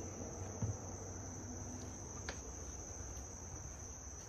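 Steady high-pitched chorus of insects trilling without a break, with a couple of faint ticks.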